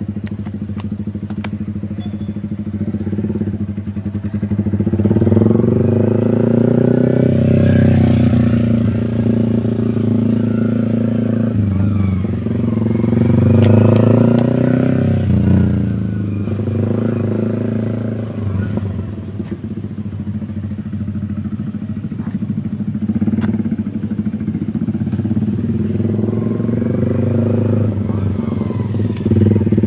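Yamaha R15 V4's 155 cc single-cylinder engine breathing through a short aftermarket Proliner exhaust, running under throttle. Its pitch climbs and falls back twice, about five seconds in and again about halfway, then rises more gently near the end.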